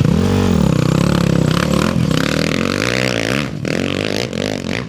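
Off-road racing motorcycle engine revving, its pitch rising and falling several times.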